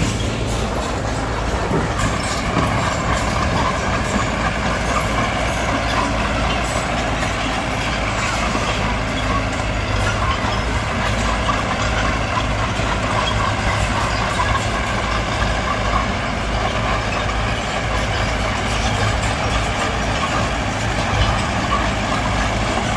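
Diesel engine of a Mitsubishi BD2G bulldozer running steadily, a constant low drone.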